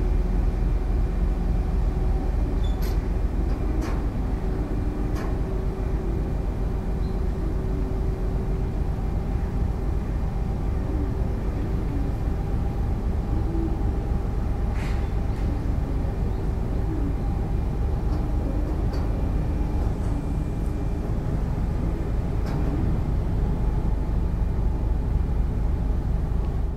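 Car ferry's engines running under way: a steady low rumble with a constant hum, and a few faint clicks.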